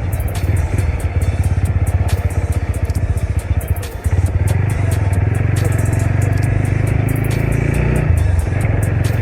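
Motorcycle engine running on the move, a steady low pulsing drone that dips briefly about four seconds in and then picks up again, with light rattling clicks throughout.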